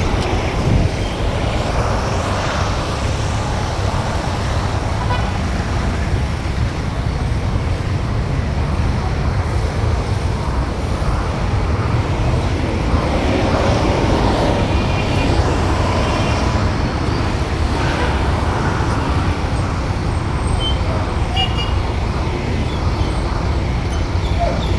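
Steady motor-vehicle and road noise with a continuous low rumble, and a few faint, brief higher tones over it.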